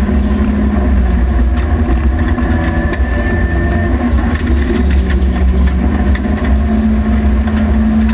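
VAZ 2105 rally car's Opel C20XE 2.0-litre 16-valve four-cylinder engine running at fairly steady revs, heard from inside the stripped cabin.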